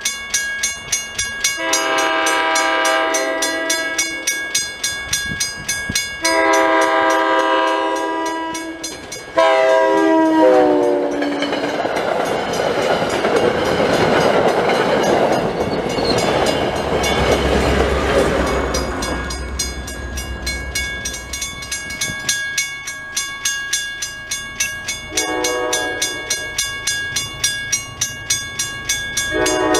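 Commuter train horn, a multi-note chime, sounding two long blasts and a shorter one that drops in pitch as the train reaches the crossing. The bilevel passenger train then rushes past with wheel-on-rail noise and a low rumble. A grade-crossing bell dings steadily underneath, and the horn sounds two more short blasts near the end.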